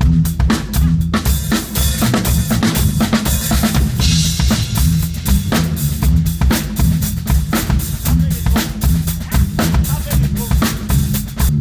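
Rock music driven by a busy drum kit: fast, steady bass drum and snare hits over a heavy low bass line, with a wash of cymbals about four seconds in.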